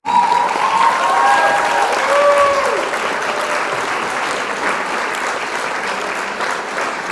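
A crowd applauding, with a few cheering voices and whoops in the first few seconds. The applause slowly dies down.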